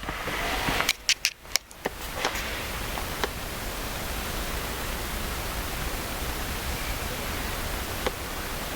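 Steady hiss of background noise, broken about a second in by a short dip and a quick run of sharp clicks.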